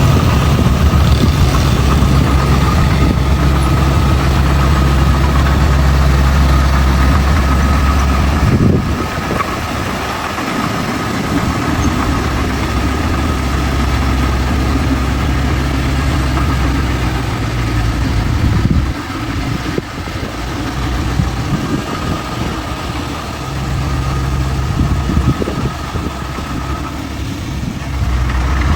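Heavy diesel engine of earthmoving machinery running under load, with a steady high whine over it. It eases off about nine seconds in, builds again, drops back once more about two-thirds through, and picks up near the end.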